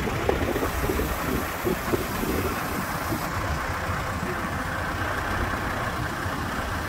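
Hidromek 102S backhoe loader's diesel engine idling steadily.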